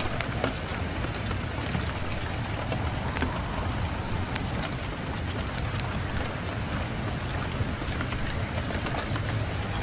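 Fireplace fire crackling, with scattered sharp pops over a steady low rush of wind.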